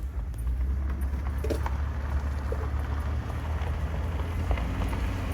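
Steady road and engine rumble inside a full-size pickup truck's cab, driving over a really bumpy road, with small rattles and knocks from the jolts.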